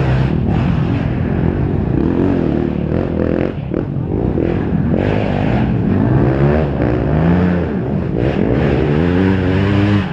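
Several motocross bike engines revving, their pitch climbing and dropping again and again as the riders work the throttle and gears.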